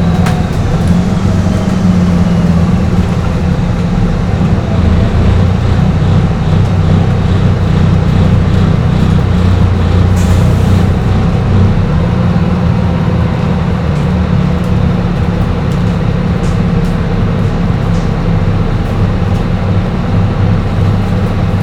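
Dennis Trident double-decker bus engine droning steadily at highway cruising speed, heard from on board, with light rattles throughout. A brief hiss comes about halfway through.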